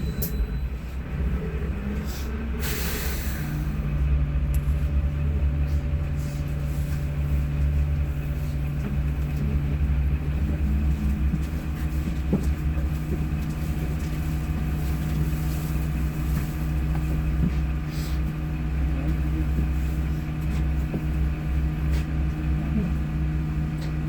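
Sinara-6254.00 trolleybus heard from inside: a short hiss of air about three seconds in, then a steady electrical hum over a constant low rumble.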